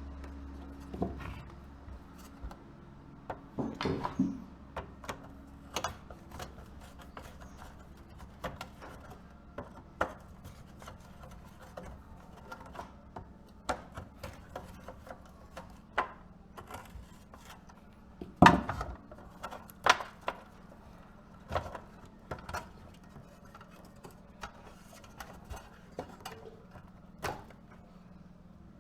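Irregular clicks and knocks of small hard objects being handled, a few a second, the loudest about two-thirds of the way in, over a faint steady hum.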